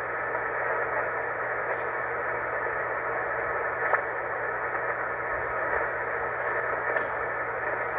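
Ham radio receiver on the 20-meter band giving a steady, narrow static hiss through its speaker on an open frequency, with a few faint crackles. Net control has just asked for check-ins and no station is answering.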